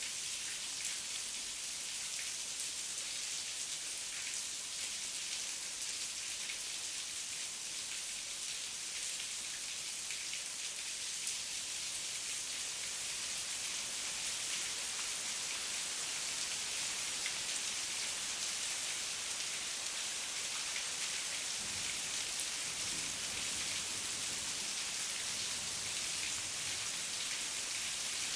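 Heavy rain falling, a steady dense hiss of drops, with a faint low rumble in the last few seconds.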